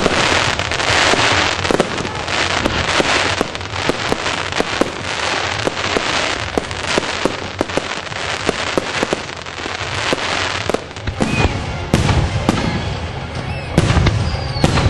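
Fireworks display: dense, continuous crackling and popping of bursting shells, with heavy low booms in the last few seconds and a falling whistle just before the end.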